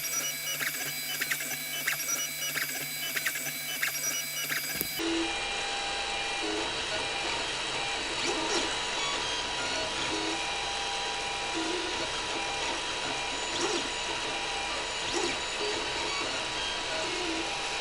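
Creality CR-10 3D printer running a print, its stepper motors singing in several steady pitched tones, with short tone blips and light clicks as the head moves. The owner takes the musical tones as a sign that the machine is running smoothly, with the filament and extruder not fighting each other.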